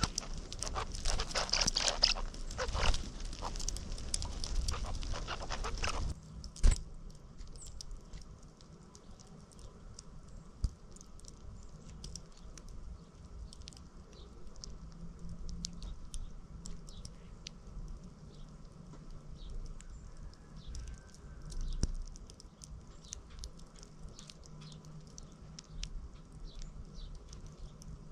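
Small backyard birds at feed: a busy pattering, rustling stretch that stops abruptly about six seconds in, then a sharp click, then scattered quick high ticks and chips over a faint steady hum.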